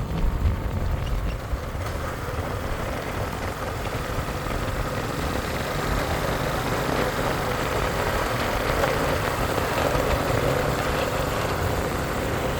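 Bajaj Avenger motorcycle running steadily on the move, with a constant low rumble.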